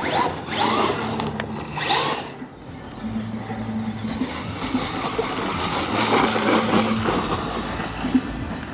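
Brushless electric motor of a 1/10-scale RC truck whining in short bursts as the throttle is blipped, the tyres spinning on loose, dry dirt. About three seconds in it settles into a steadier, lower running sound.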